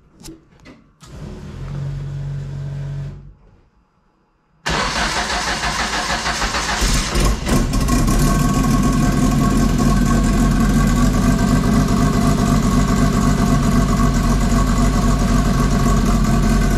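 Turbocharged Zetec four-cylinder engine of a Mk1 Ford Fiesta: a short steady hum and a pause, then the engine catches suddenly about four and a half seconds in and runs loud and steady, stepping up in level a few seconds later. It is being run to test a makeshift fire ring sealing the wastegate.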